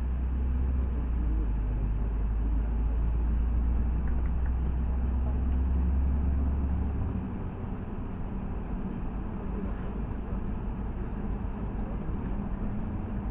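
LiAZ 6213 articulated city bus heard from inside while under way: engine and road rumble with a deep drone that drops off about halfway through, leaving a lighter running noise.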